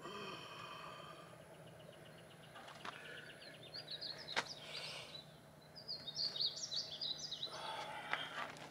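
Birds chirping and singing in the open air, with a faint steady low hum underneath and one sharp click about four and a half seconds in.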